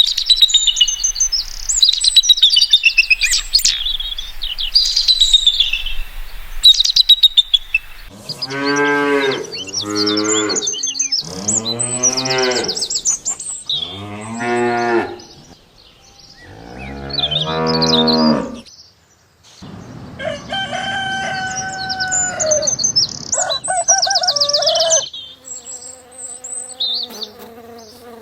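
Birds chirping for the first several seconds, then cattle mooing: five long, low calls. After them come other, higher animal calls.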